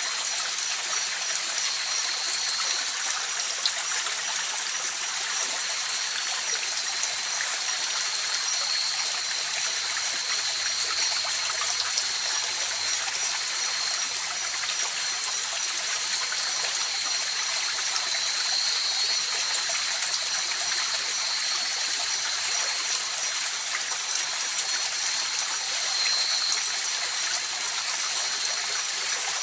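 River water flowing and rushing steadily over stones, an even, unbroken wash of sound. Two thin, steady high-pitched tones run above it throughout.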